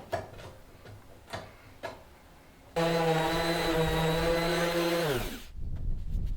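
Electric power tool switched on, its motor running steadily for a couple of seconds, then switched off and spinning down with falling pitch. A few light clicks come before it.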